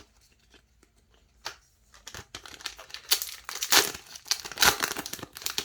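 Foil wrapper of a Yu-Gi-Oh! Rush Duel booster pack being torn open and crinkled. A run of crackling rustles starts about two seconds in and lasts about three seconds.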